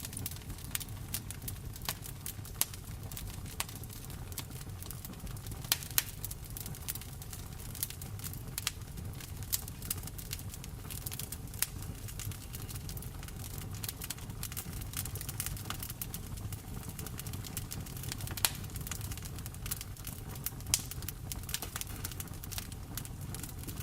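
Wood fire crackling in a fireplace, with irregular sharp pops and snaps throughout, a few louder ones standing out, over a steady low rumble and the patter of rain.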